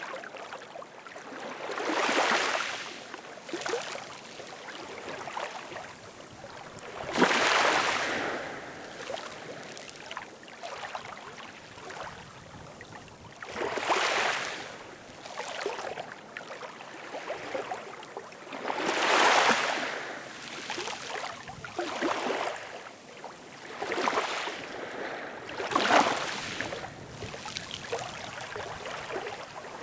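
Ocean surf: waves breaking and washing in, swelling and fading every few seconds over a steady hiss of water, with four larger surges and several smaller ones.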